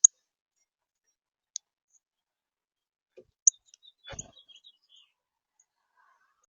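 A few short, high bird chirps, single notes spaced one to two seconds apart, with a soft thump a little after four seconds in.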